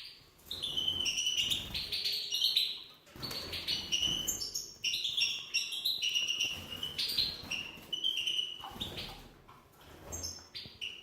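Female European goldfinch cheeping in quick runs of short, high notes, with a brief pause about three seconds in and a quieter stretch near the end.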